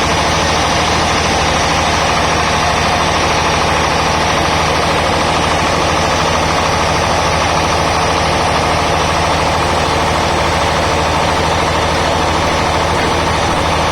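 Sawmill band saw running steadily: a low hum with a dense, even noise over it that does not change.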